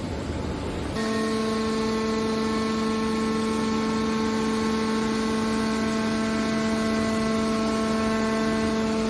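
A steady machine hum with a pitched whine that sets in suddenly about a second in, over a rumbling noise.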